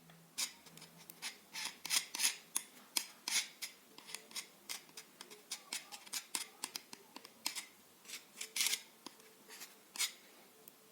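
Hand work during a tool restoration: a quick irregular series of short scraping and clicking strokes, about three a second, with brief pauses.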